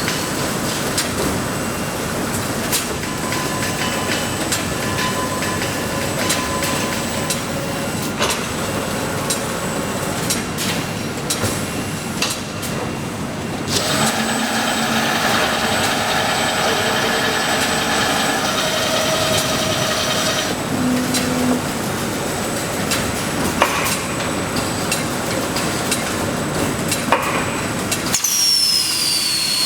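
Motor-production machinery running in a factory: a steady mechanical din with many sharp metallic clicks and clatter. The character of the noise changes abruptly about halfway through. Near the end a high whine falls steadily in pitch.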